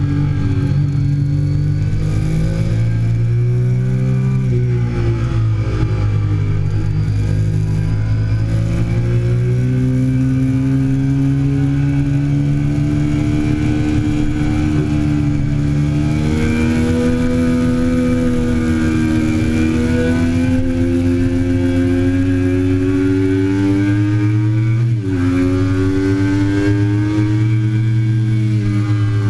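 2008 Triumph Daytona 675's inline three-cylinder engine under way on a racetrack, its pitch rising and falling with the throttle, with a sudden drop in pitch near the end.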